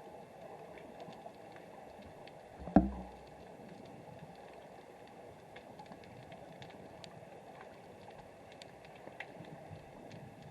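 Underwater ambience picked up by a submerged camera: a faint steady hiss sprinkled with small scattered clicks, and one dull knock about three seconds in.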